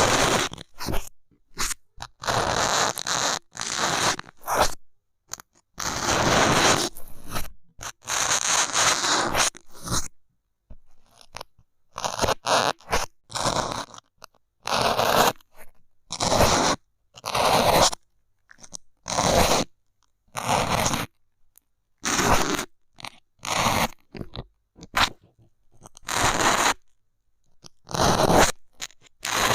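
A bamboo stick pressed and scraped against an ASMR microphone, making a long run of short, scratchy crunching strokes with brief pauses between them. There is a quieter stretch about ten seconds in.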